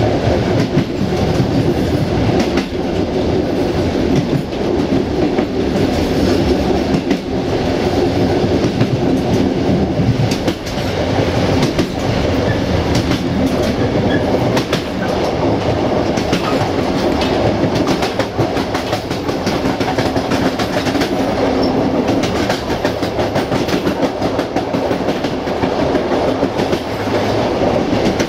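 Passenger train running along the line, heard on board at its rear: a steady rumble of wheels on rail, with frequent clicks and knocks from the track.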